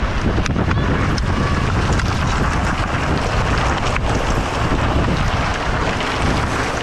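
Steady wind rushing over the microphone as a mountain bike descends at speed, with a few sharp clicks scattered through it.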